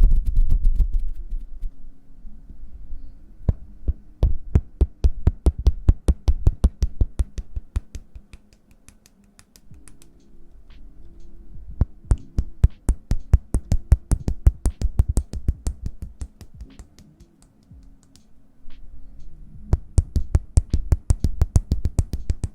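Hand sounds close to the microphone: rapid, crisp taps and clicks, several a second, coming in bursts with short lulls about eight and eighteen seconds in.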